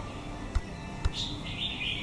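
A small bird chirping in short, high calls, with two soft knocks about half a second and a second in.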